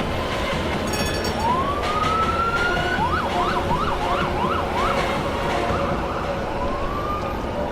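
Emergency vehicle siren over steady traffic noise: a rising wail starting about a second and a half in, then a run of fast up-and-down yelps, and another rising wail near the end.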